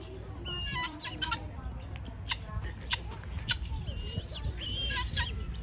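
Birds chirping and calling: short sharp chirps and brief whistled notes repeating at irregular intervals, over a steady low rumble.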